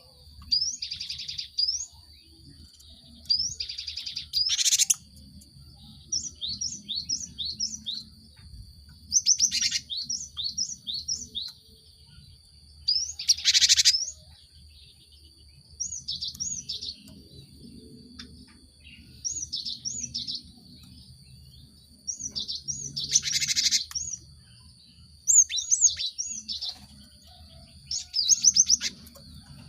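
Cinereous tit (gelatik batu) calling: phrases of quick, short, high chirps every few seconds, mixed with harsh, buzzy scolding bursts about a second long. A faint steady high tone runs underneath.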